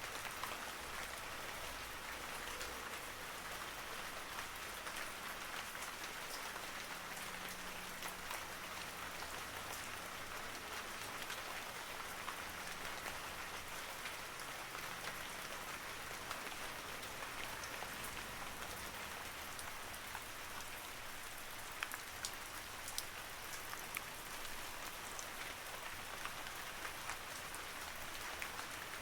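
Steady rain falling on a surface, an even hiss with scattered sharper drop ticks, a few louder ones a little past the middle.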